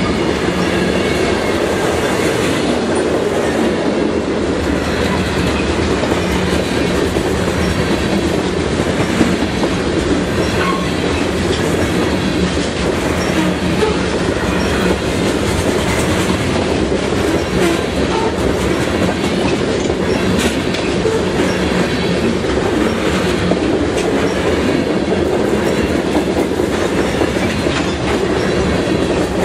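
A train rolling steadily past, its cars' wheels running over the rails with an even, unbroken noise.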